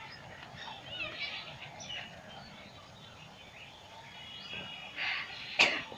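Faint outdoor background noise with birds chirping in short, scattered calls, and one sharp click near the end.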